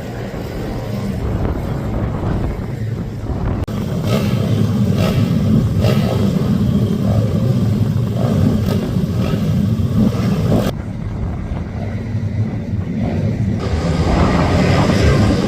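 Racing minibike engines running on the track. The sound changes abruptly about four seconds in and again near eleven and fourteen seconds.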